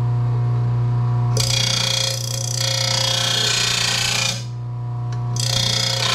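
RBG 712 mower blade sharpener's motor running with a steady hum while a mower blade is drawn across its grinding wheel twice, each pass a grinding hiss of about three seconds, starting about a second in and again near the end. The passes grind down the heavy end of the blade to balance it.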